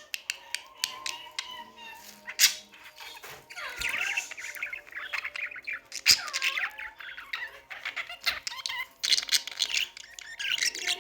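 Budgerigar chattering and warbling without a break: a rapid run of chirps, squawky notes and sharp clicks, with louder stretches of warbling now and then.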